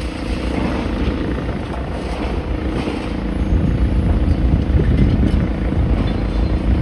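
Steady low engine rumble with wind buffeting the microphone, growing louder over the last few seconds.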